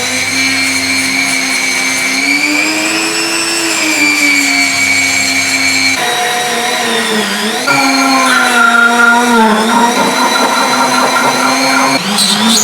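A small high-speed electric power tool motor whining steadily, its pitch sagging and recovering as it is pressed to the work, while removing rust from a part. The sound changes abruptly about six and eight seconds in, as between spliced clips.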